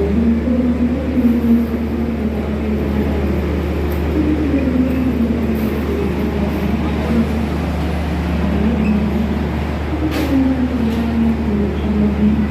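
Diesel locomotive running with a steady low drone, a wavering pitched tone riding over it, and a single sharp knock about ten seconds in.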